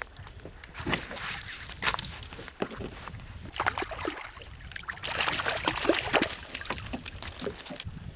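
Water splashing and sloshing in irregular bursts beside a kayak as a hooked silver (coho) salmon thrashes and is brought in.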